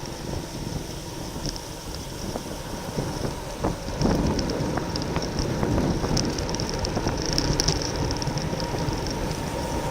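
Wind rushing over the microphone of a racing cyclist's onboard camera, with road and bicycle noise underneath; it gets louder about four seconds in.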